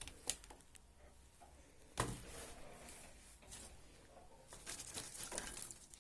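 Faint rustling and small clicks of objects being handled, with a sharp knock about two seconds in and a busier patch of rustling near the end.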